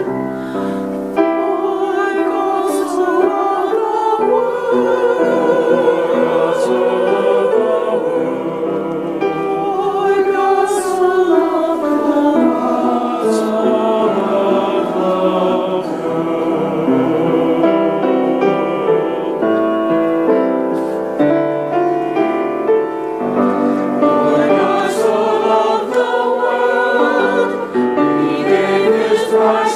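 Church choir singing, many voices holding and moving between notes with vibrato.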